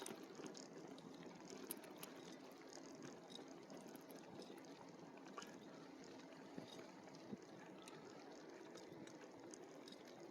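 Near silence: a faint steady hiss with a few light ticks.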